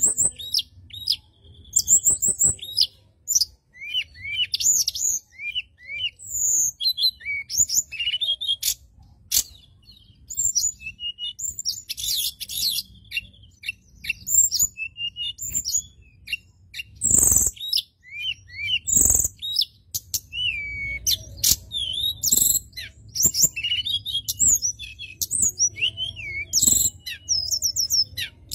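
Birds chirping, many short quick calls one after another. A few sharp clicks or knocks come through, two of them loud in the second half.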